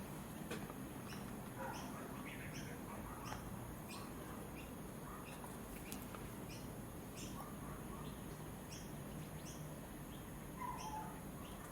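Faint, steady series of short, high chirps from a small bird, one to two a second, over a low steady background hum.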